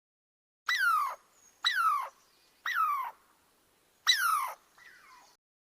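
An animal calling: four loud cries about a second apart, each sliding down in pitch, then a fainter fifth cry.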